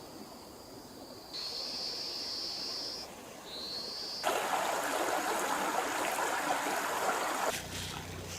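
Flowing stream water: a loud, even rush that begins abruptly about four seconds in and cuts off just as suddenly about three seconds later. Before it, a steady high-pitched insect buzz that grows louder for a while, and near the end a low hum.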